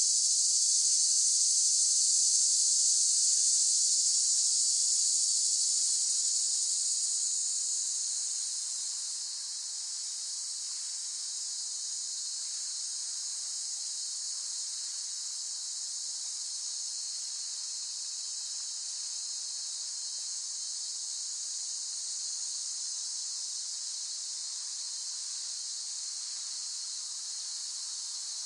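Cicadas buzzing in a steady, high-pitched drone. It is louder for the first few seconds, eases off about eight seconds in, then holds steady at a lower level.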